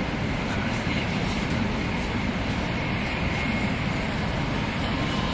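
Interior running noise of a JR West 300 series Shinkansen: a steady rumble and rush of wheels and air, with a faint steady high tone.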